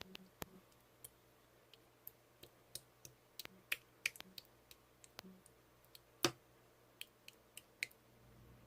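Slime being handled and pressed by hand, giving irregular sharp little clicks, the loudest a little past six seconds in.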